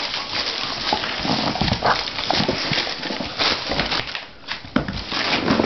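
A kelpie tearing wrapping paper off a present: the paper crinkles and rips in a quick, continuous string of tears, with a short pause a little past the middle.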